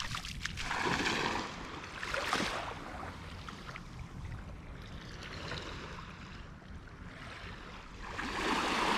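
Surf washing up on a sandy beach, a hiss that swells about a second in, again a little later, and more strongly near the end.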